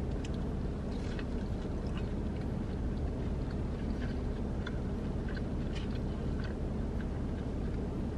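Close-up chewing of a sauce-dipped falafel: soft, irregular wet clicks and crunches of mouth sounds. They sit over a steady low rumble that runs throughout.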